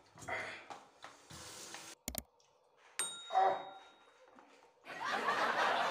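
A man's short gasps and breaths from chili heat, broken by a subscribe-button sound effect: a sharp double click about two seconds in, then a bright ringing ping about a second later. From about five seconds in there is a steady hissing rush.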